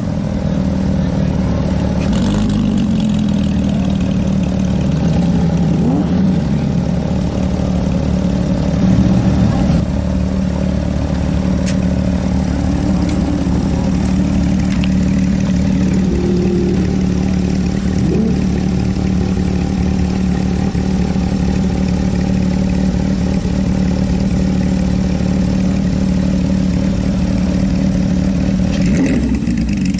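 Car engine running at a steady idle, with a few short, faint rises in pitch from engines nearby.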